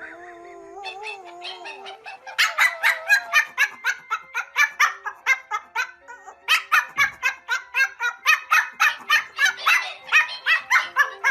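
A puppy yapping in fast runs of short, high-pitched barks, several a second, starting about two seconds in, pausing briefly, then going again from about six seconds on, over light background music.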